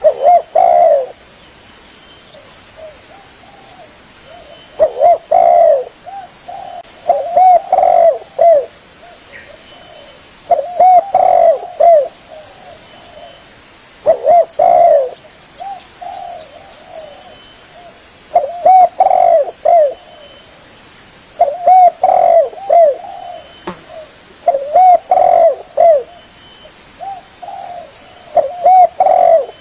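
Spotted dove (tekukur) cooing, a lure-call recording: short phrases of several coos repeated every two to three seconds, with fainter coos in between.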